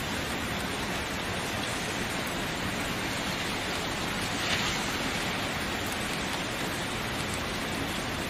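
Steady rainfall, an even dense hiss of rain on surfaces, with one slightly louder splash or drop about four and a half seconds in.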